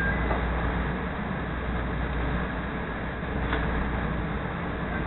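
Steady low hum and rumble inside a CTA Green Line rail car standing at a station platform, with a faint click about three and a half seconds in.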